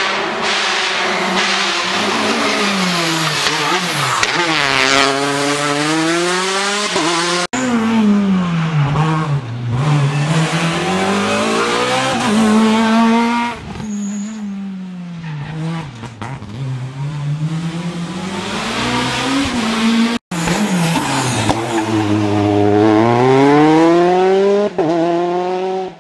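Rally cars at full race pace: engines rev hard and fall away through gear changes and braking, pitch climbing and dropping again and again, with tyre squeal. The sound breaks off abruptly twice, about a third of the way in and again past the three-quarter mark, as one car's run gives way to the next.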